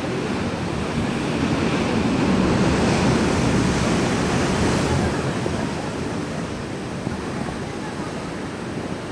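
Sea waves breaking on the shore: a surge builds and peaks over a few seconds, then eases back into a steadier wash.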